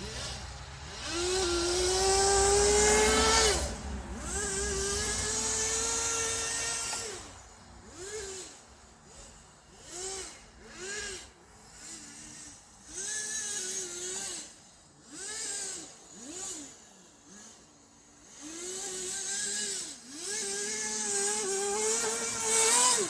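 Kyosho Blizzard's small nitro engine revving in throttle blips, its pitch rising and falling each time. There are two longer pulls in the first few seconds, then a run of short, separate blips, and another longer pull near the end.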